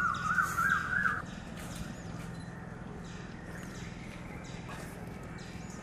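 A bird calling a run of short notes that climb higher step by step, ending about a second in, over a steady low hum; faint light ticks come about once a second after it.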